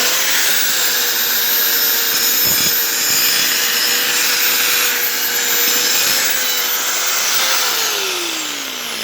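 Craftsman die grinder running at a steady high-pitched whine while grinding on a workpiece, with a rough scraping hiss over the motor. About seven and a half seconds in it is switched off and its pitch falls as it spins down.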